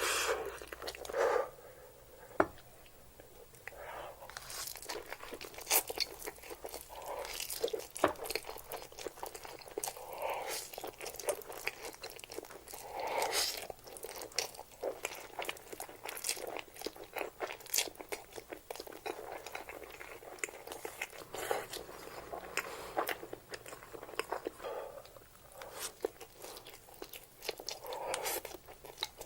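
Close-up eating sounds of a person chewing spicy instant noodles, with many short irregular mouth clicks throughout.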